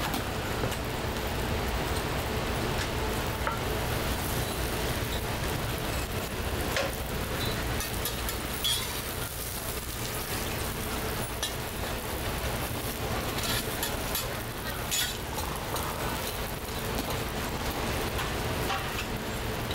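Oil sizzling as scallion pancakes fry on a hot griddle, with a few light clicks and knocks of cooking utensils over a steady low hum.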